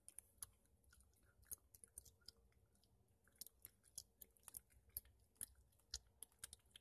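Faint, irregular clicks and smacks of a person chewing a rubbery green-apple gummy candy with dentures; the candy will not break down.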